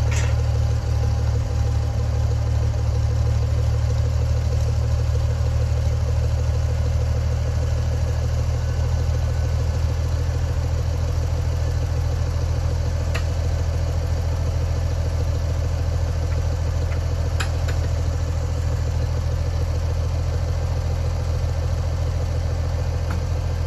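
Tractor engine idling steadily, with a couple of sharp clicks about halfway through and later.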